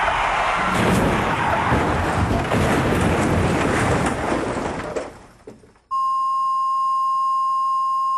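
A loud, dense noisy din fades out over about a second, about five seconds in. Then a steady high-pitched beep tone, like a censor bleep, starts about six seconds in and holds without change.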